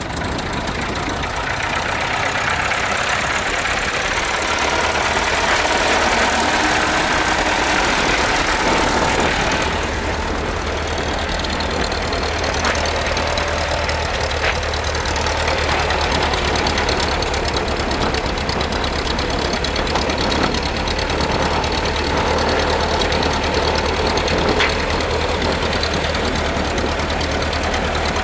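Ford 8N tractor's four-cylinder flathead engine running steadily, settling slightly about ten seconds in.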